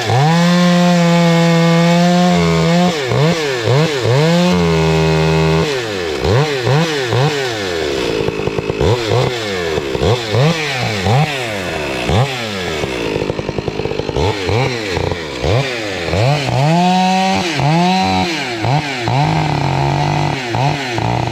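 Two-stroke chainsaw revving: held at full throttle for a couple of seconds near the start and again near the end, with quick repeated throttle blips in between. Its owner says afterwards that something is wrong with the saw and it needs some work.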